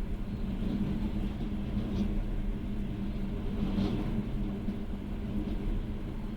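Passenger train running on the rails, heard from inside the carriage: a steady low rumble and hum of wheels and running gear, with a couple of faint ticks partway through.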